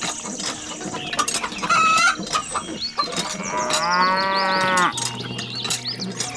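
A cow mooing: one long call about halfway through, among scattered clicks and knocks.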